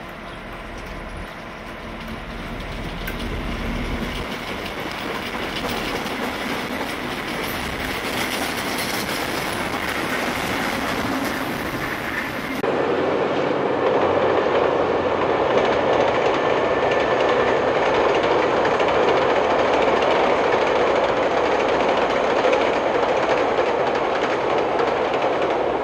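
Suburban electric multiple-unit train running in, its wheels clacking over the rail joints, growing louder as it comes closer. About halfway through the sound changes abruptly to a louder, steady rumble of a train crossing a long bridge over a river.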